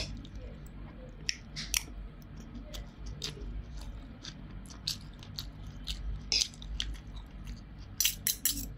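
Close-up chewing of a mouthful of rice and fermented mustard greens, with many short wet mouth clicks and lip smacks. A quick run of sharper clicks comes near the end.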